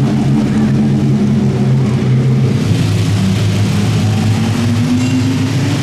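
Modified garden tractor engine running hard under load during a pull. Its note drops about halfway through, then climbs again near the end.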